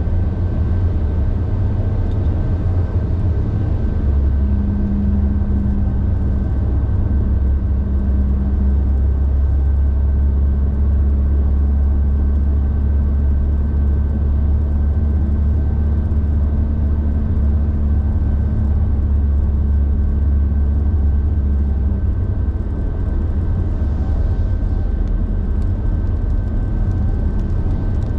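Car driving on the road: a steady low rumble of engine and tyres, with a steady hum that holds from about four seconds in until about twenty-two seconds in.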